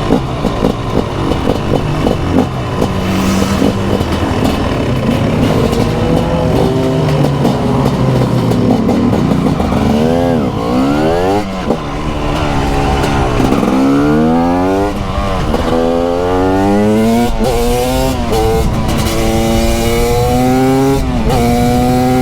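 TM SMR 300 two-stroke single-cylinder supermoto engine under way, running low and uneven at first. From about ten seconds in it revs hard again and again, the pitch climbing and then dropping sharply at each gear change as the bike accelerates.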